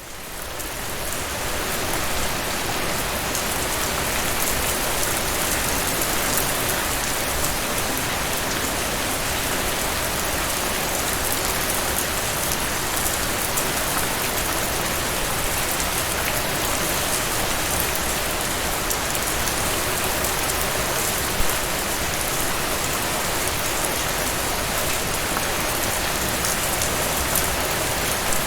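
Heavy rain falling steadily, a dense even hiss with scattered drop ticks, fading in over the first couple of seconds.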